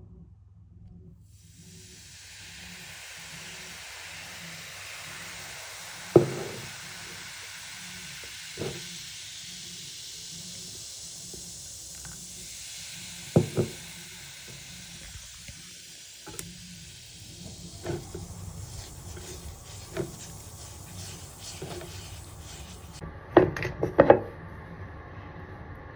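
A steady hiss with occasional knocks; the hiss stops suddenly near the end, followed by a few louder knocks close together.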